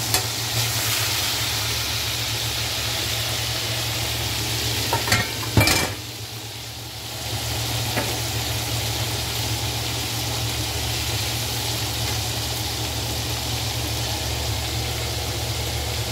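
Coconut-breaded pork chops frying in hot oil in a metal pan: a steady sizzle over a low hum. A few sharp clicks come about five seconds in as the chops are turned, and the sizzle drops briefly before settling back.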